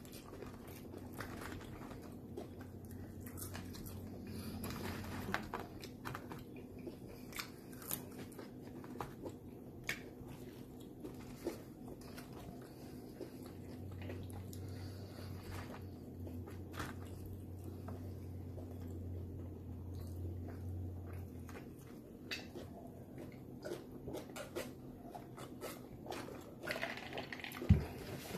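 A person chewing and biting into a burger and fried food, with many small scattered mouth clicks and smacks, fairly quiet.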